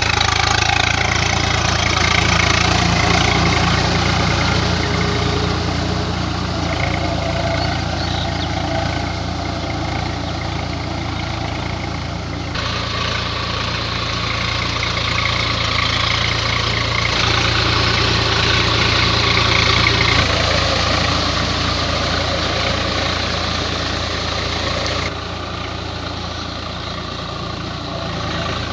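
Swaraj 744 FE tractor's three-cylinder diesel engine running steadily while driving a rotary tiller through the field, with a few abrupt changes in tone and level.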